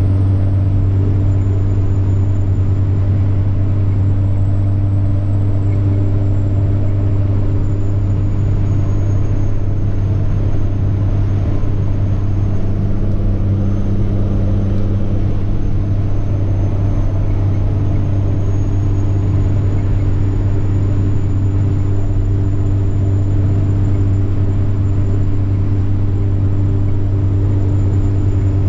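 Semi-truck diesel engine running steadily at cruise, a deep drone under a thin high turbocharger whine that sags slightly in pitch partway through and creeps back up later.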